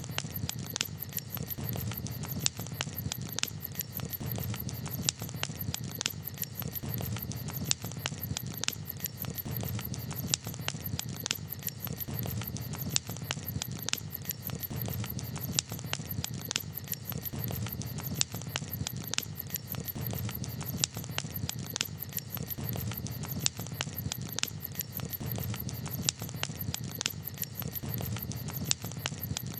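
Wood campfire crackling: many sharp, irregular pops and snaps over a low, steady rush.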